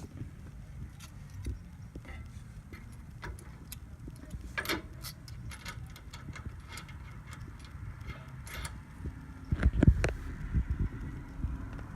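Small metal parts clicking and clinking as a sway bar link bolt is fitted with its bushings and washers, with a few heavier knocks near the end.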